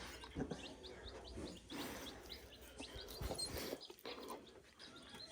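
Chicks peeping steadily, many short high peeps a second, with a few soft knocks and rustles.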